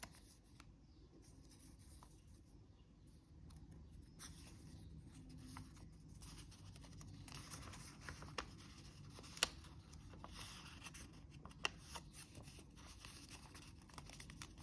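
Faint rustling and creasing of a sheet of origami paper being folded by hand, with a few sharper crackles in the second half.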